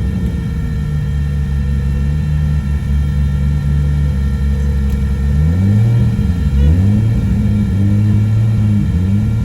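Nissan RB25 NEO turbocharged straight-six engine running under way. The engine note holds steady for about five seconds, then falls and climbs back a few times in the second half.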